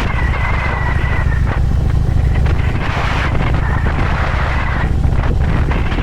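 Harley-Davidson Electra Glide's V-twin engine running under way, a steady low rumble, with wind rushing over the camera microphone and a thin whistle that comes and goes.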